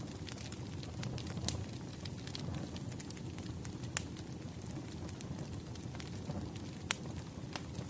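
Wood fire crackling: a low steady rumble of flames with irregular sharp pops and snaps, the loudest about four seconds in and again near the end.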